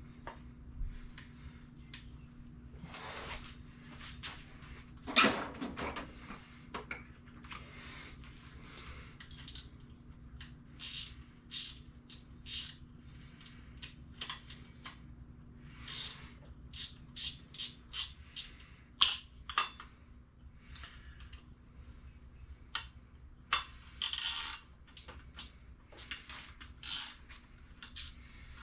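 Metal engine parts and hand tools clinking, tapping and knocking as they are handled during engine assembly: many short clicks, with a few louder knocks, over a steady low hum.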